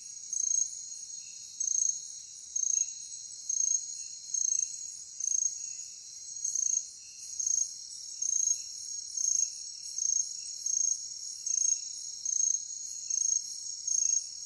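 Night insect chorus dominated by crickets: a steady high-pitched trill with one loud chirp repeating regularly about once a second, and fainter lower chirps in between.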